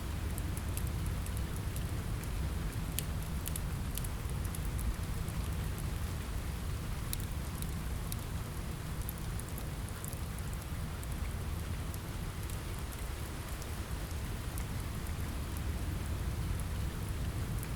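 Steady rain ambience: an even hiss over a deep low rumble, with scattered sharp crackles of a fireplace fire, most of them in the first half.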